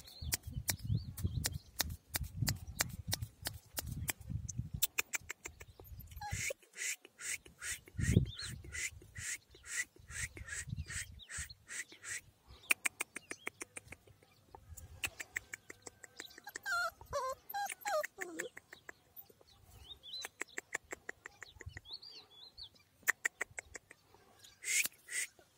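Birds chirping, with a fast run of evenly repeated chirps about a quarter of the way in and a wavering call about two-thirds through. Wind rumbles on the microphone in the first few seconds.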